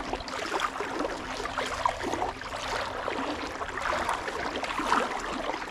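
Creek water babbling and splashing: a dense, steady rush full of small crackles and trickles.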